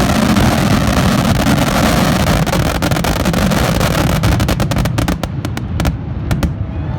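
Fireworks going off in a dense, rapid barrage: a continuous low rumble of booms packed with crackling reports, thinning to separate cracks near the end.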